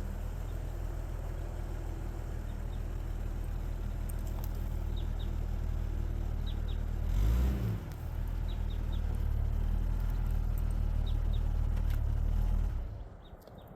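Jeep engine running at low revs, with a short rise and fall in engine speed about halfway through as the vehicle is moved. The engine is then switched off near the end.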